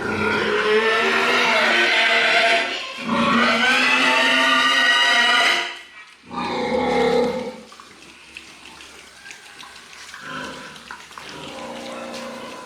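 Pigs squealing: two long, loud, pitched squeals back to back, a shorter one after them, then quieter lower calls.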